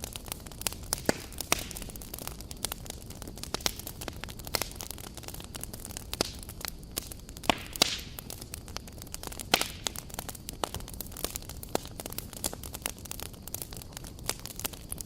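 Wood campfire burning: irregular crackles and sharp pops over a steady low rush of flame.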